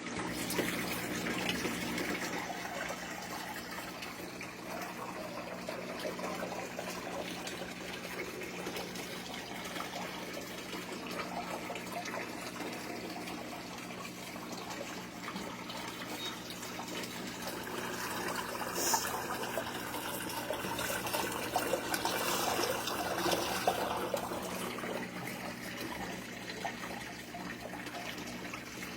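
Washing machine running, with water rushing and sloshing inside it over a steady low hum, a little louder about two-thirds of the way through.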